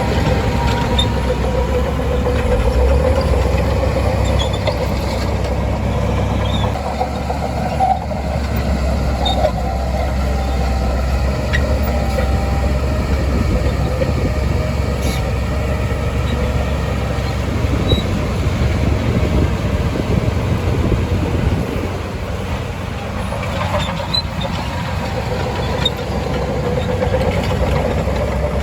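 Shantui DH17C2 crawler bulldozer at work: its diesel engine runs steadily under a low, even drone, with scattered short clanks and clicks from the machine.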